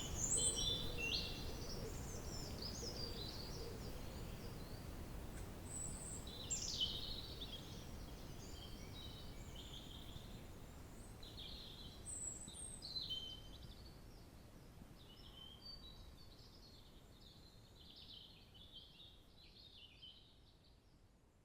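Woodland ambience: songbirds chirping and trilling in short phrases over a low, steady background rumble, the whole gradually fading out toward the end.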